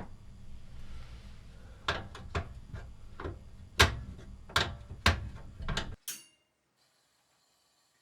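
Sharp clicks and knocks from tools or parts being handled in a workshop, irregular at one to two a second, over a low steady hum. The sound cuts off abruptly about six seconds in.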